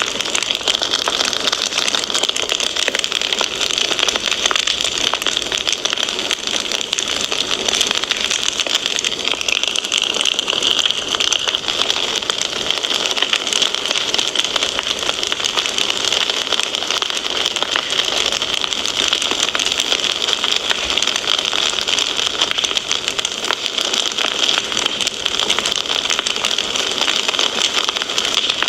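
Wood fire crackling steadily: a dense hiss thick with small pops and snaps.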